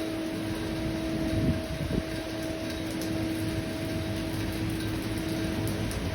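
Steady rain hissing evenly, with a steady low hum underneath.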